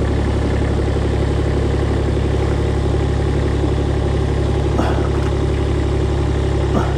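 Engine of the machine holding the lifted sawmill head, idling steadily with a strong low hum.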